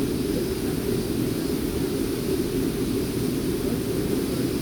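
Steady rush of a waterfall's falling water: a low, even noise that doesn't let up.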